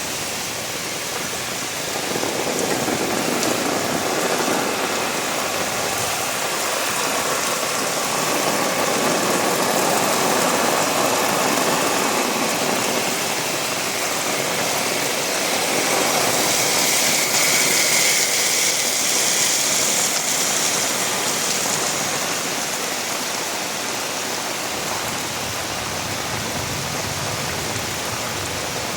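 Heavy rain falling, a steady hiss that grows louder for several seconds in the middle before easing back.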